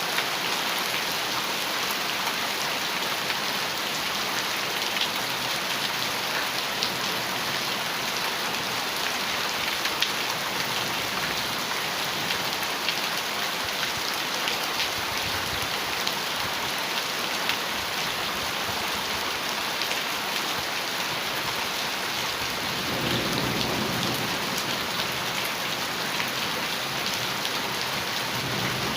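Heavy rain drumming steadily on a metal roof: a dense, even hiss with scattered sharp drop ticks. A short low rumble of thunder swells about three-quarters of the way through.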